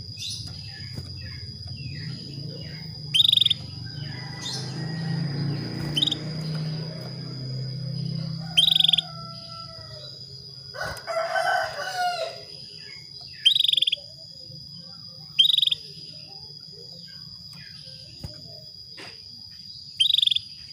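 Female canary's short, high chirp calls, six of them spaced a few seconds apart: the call of a hen in breeding condition calling to a male. A rooster crows in the background about midway, and a steady high-pitched whine runs underneath.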